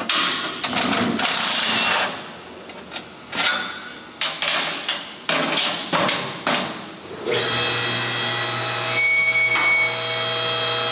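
Irregular knocks and clanks of hand work on heavy parts, then about seven seconds in a power tool's motor starts and runs steadily with a high whine.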